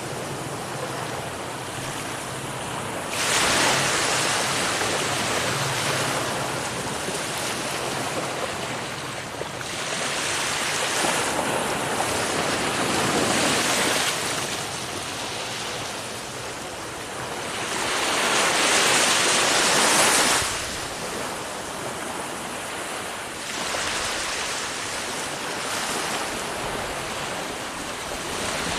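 Ocean waves breaking, the surf swelling loudest three times: suddenly about three seconds in, again around ten to fourteen seconds, and near twenty seconds, each then washing back down.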